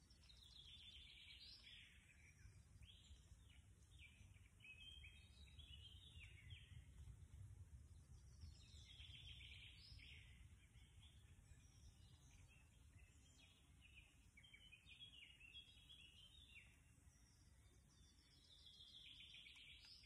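Faint birdsong in woodland: songbirds singing short chirpy phrases in bouts every few seconds, over a quiet low rumble.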